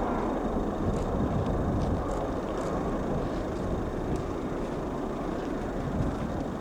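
Steady low rumble of a Boeing 747-400's jet engines, heard as the jumbo jet climbs away after takeoff.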